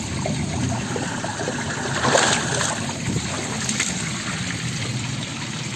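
Shallow, clear mountain stream running over rocks, with a louder splash about two seconds in and a smaller one near four seconds.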